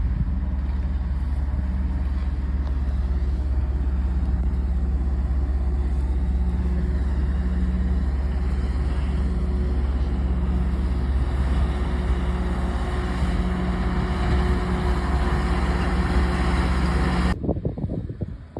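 Snowdon Mountain Railway rack train running, a loud steady low engine drone with a constant hum, cutting off abruptly near the end.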